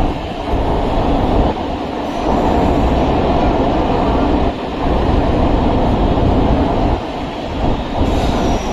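Chennai MRTS electric suburban train running, a steady loud rumble and rattle of the train in motion.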